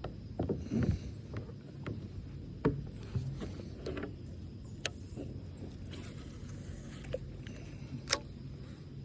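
Scattered knocks and sharp clicks of fishing gear being handled in a kayak during a swimbait cast and retrieve, over a faint steady low background.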